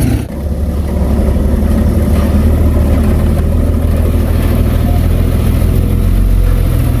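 Heavy diesel engine of earthmoving machinery running steadily, with a brief drop in level just after the start.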